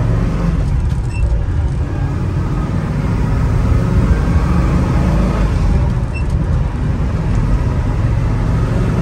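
Rebuilt Ford FE 390 V8 with dual four-barrel carburettors pulling hard under acceleration, heard from inside the cabin as a loud, steady low rumble. It eases off briefly twice, about two seconds in and about six seconds in, as the Toploader four-speed is shifted up through the gears.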